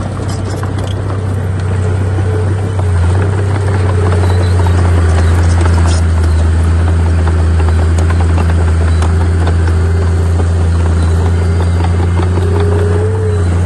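Heavy diesel engine of an earthmoving machine working under load, with a strong low steady tone. It gets louder about three seconds in and eases off near the end.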